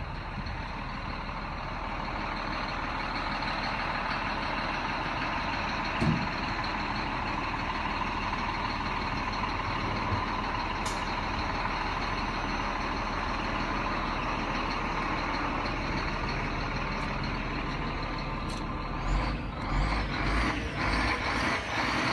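2014 Scania G410 truck's diesel engine running steadily, with a single thump about six seconds in and a run of irregular low thumps and knocks near the end.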